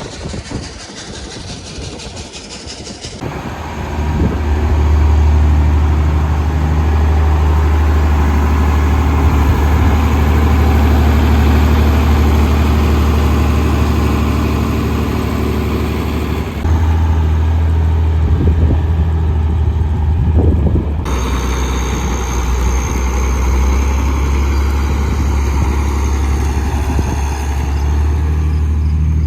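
Farm machinery engine running steadily with a deep hum, the sound changing abruptly a few times.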